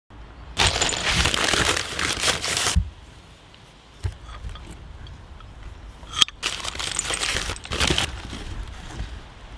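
Packaging being crinkled and torn open in two loud bouts of rustling, with a sharp click between them, as a parcel is unwrapped.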